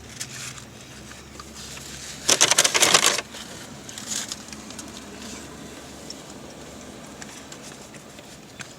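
Paper food packaging crinkling in a burst about two seconds in, lasting about a second, with a few small clicks and rustles before and after.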